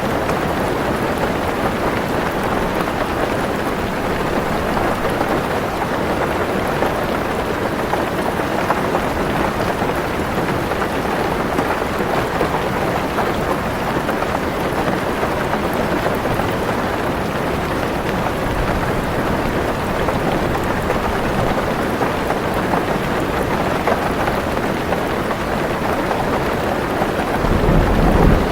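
Heavy rain falling steadily on a car's roof and windows, heard from inside the car. A low rumble of thunder swells up near the end.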